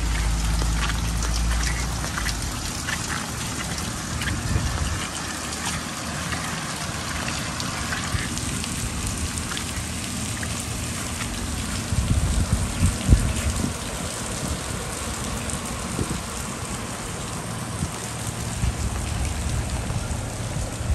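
Heavy rain falling steadily. A low rumble sits under it for the first two seconds, and a few low thumps come about twelve seconds in.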